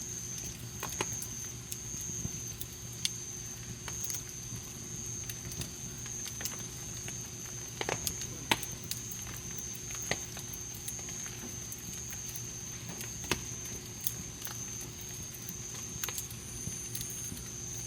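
Wood campfire crackling: irregular sharp pops and snaps from the burning wood, a few louder ones about 8 and 13 seconds in. A thin steady high tone sits behind the crackle.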